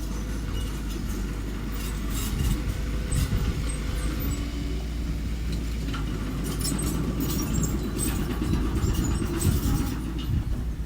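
Engine of a small earthmoving machine running steadily, with scattered clicks and rattles over the low rumble.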